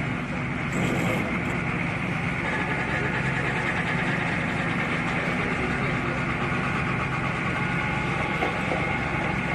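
An engine running steadily at constant speed, with voices talking behind it.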